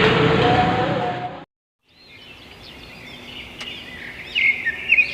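Background music cuts off about a second and a half in. After half a second of silence, birds chirp over faint outdoor noise, with quick high rising and falling calls growing louder near the end.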